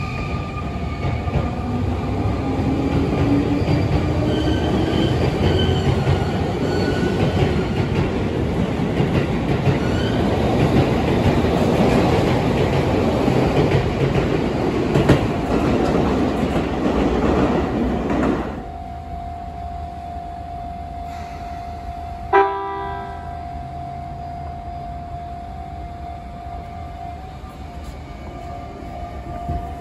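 Sotetsu electric commuter train pulling out of the station: wheels rumbling and the traction motors whining as the pitch slowly rises. About two-thirds of the way through the loud running noise cuts off abruptly, leaving a quieter steady hum with one short, sharp pitched sound.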